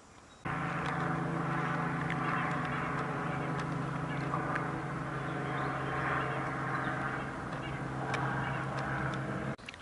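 Steady mechanical drone with a low hum and several higher tones held at one pitch. It starts suddenly about half a second in and cuts off suddenly near the end, with faint ticks over it.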